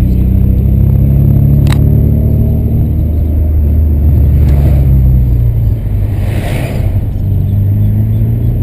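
Volkswagen Santana's AP 2.0 four-cylinder engine running with a deep, steady exhaust rumble, easing off briefly about six seconds in.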